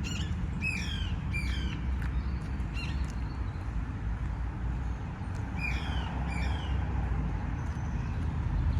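Bird squawking: short, harsh calls that fall in pitch, three in quick succession at the start and two more about six seconds in, over a steady low city rumble.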